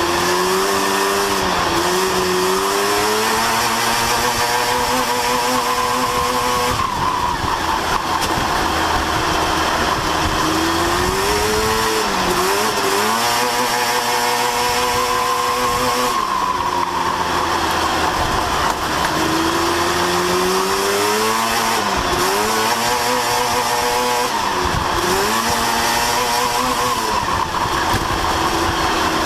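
Sport truck race engine at full throttle down the straights, its pitch climbing for several seconds and then dropping sharply as it lifts for the turns, again and again through the lap.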